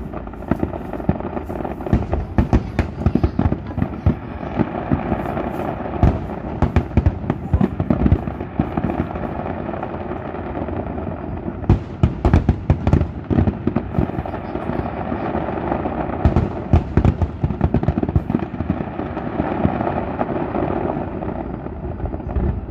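Fireworks display: aerial shells bursting in rapid, overlapping bangs that come in dense clusters every few seconds, over a steady background rumble.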